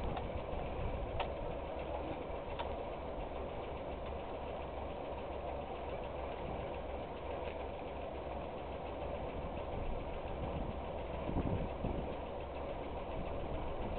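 A tractor's engine idling steadily.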